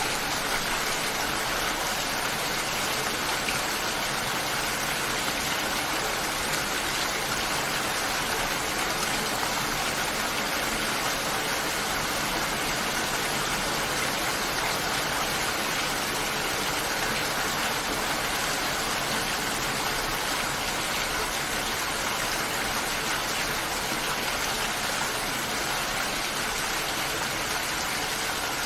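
Steady rain, an even hiss of falling water with no single drops or other sounds standing out.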